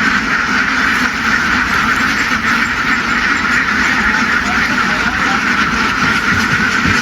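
A large flock of ducks quacking all at once, a dense, steady chorus of overlapping calls.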